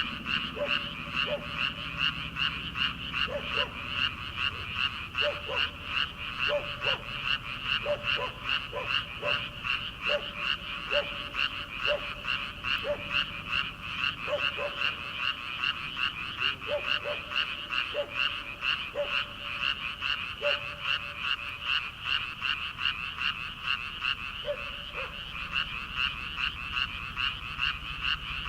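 Chorus of many rice-paddy frogs calling: a dense, high, fast-pulsing chorus, with a second, lower-pitched kind of frog calling in short notes now and then. The lower calls stop after about 21 seconds and come back once briefly near the end.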